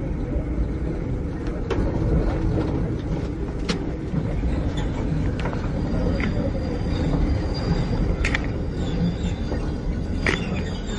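Interior running noise of a Keikyu 600 series electric railcar with Toyo Denki electrical equipment: a steady rumble with scattered sharp clicks. A faint high squeal comes in about halfway through as the train runs into Keihin Kawasaki station.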